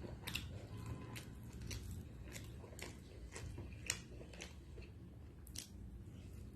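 A person chewing and biting food close to the microphone: a string of irregular mouth clicks and smacks, the sharpest about four seconds in.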